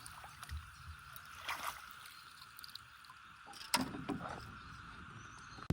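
Faint water sloshing with a few soft knocks and one sharper click about three and a half seconds in.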